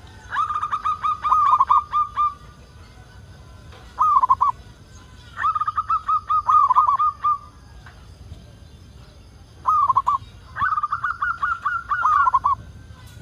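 Zebra dove (perkutut) singing three song phrases. Each phrase is a short opening note followed by a rapid string of about ten staccato coos, roughly five a second.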